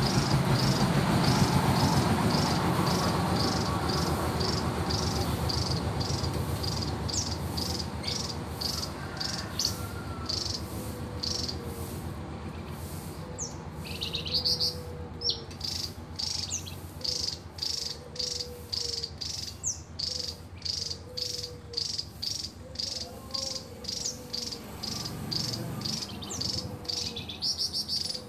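Javan tesia singing non-stop in the full, continuous form bird-keepers call 'ngebren'. Its song is a run of short, high notes repeated about twice a second, busier a little past the middle. A low rumble at the start fades away over the first several seconds.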